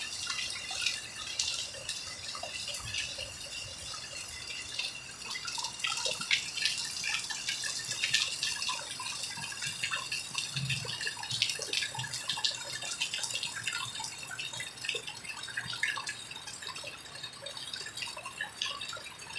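Rain falling steadily, with many irregular drops dripping and splashing.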